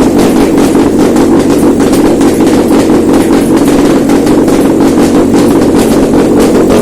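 Toyota 2AR-FE 2.5-litre inline-four petrol engine running steadily at idle on a test stand, with a light ticking over the engine note.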